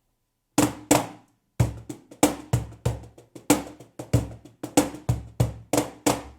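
J Prado cajon played by hand, unmiked and heard with only the room sound: two opening hits, then a steady groove of deep bass tones alternating with sharp, bright slaps at about three strokes a second.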